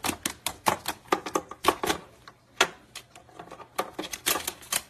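A parrot's beak biting and chewing at a cord: quick, irregular sharp clicks and crunches, several a second.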